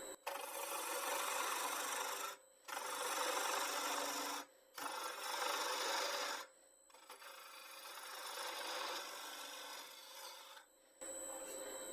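A woodturning tool cutting into the spinning wood of a bowl blank on a lathe. It makes three passes of about two seconds each with short breaks between, then a softer, longer pass, while the lathe's steady hum carries on underneath.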